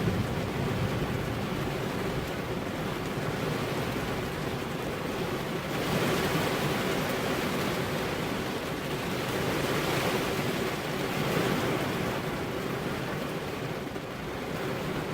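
Heavy rain falling in a steady dense hiss, swelling louder about six seconds in and again about ten seconds in.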